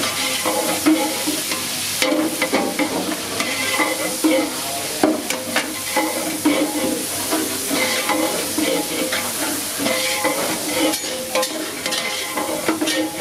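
Ladle stirring and scraping in a large cooking pot over food sizzling in hot oil, a steady hiss with frequent irregular scrapes and clinks, part of cooking vegetable pulao.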